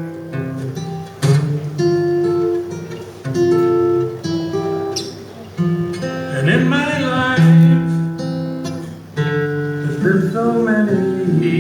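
Instrumental introduction to a folk song: acoustic guitar playing, with harmonica holding long notes that change every second or so.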